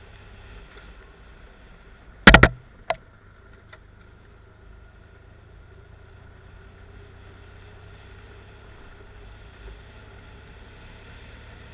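Large adventure motorcycle's engine running steadily at low speed on a rough dirt track. About two seconds in comes a loud sharp knock, then a smaller one about half a second later.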